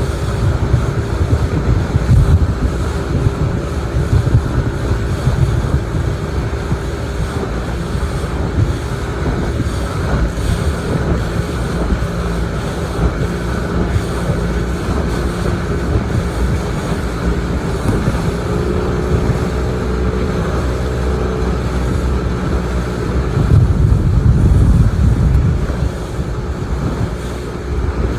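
Motorboat engine running steadily under way, with wind buffeting the microphone. The engine's pitch shifts slightly about two-thirds of the way in, and a stronger gust of wind comes near the end.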